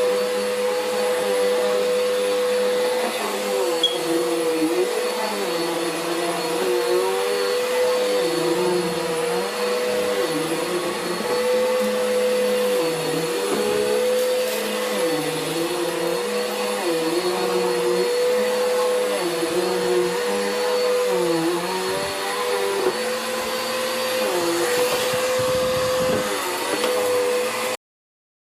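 Vacuum cleaner running steadily, its motor pitch dipping and recovering about every second and a half. It cuts off abruptly near the end.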